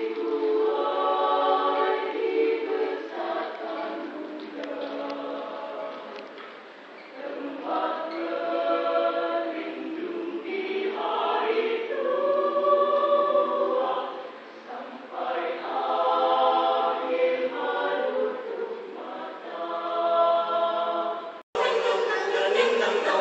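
Student choir of men's and women's voices singing together in sung phrases that swell and ease back. Near the end it cuts abruptly to a clearer recording of the group singing a new song in rehearsal.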